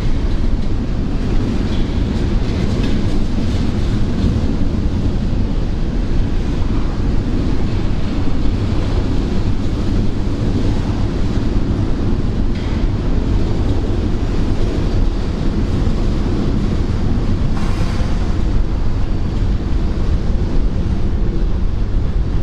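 Freight train rolling past with a steady, loud rumble and no pauses.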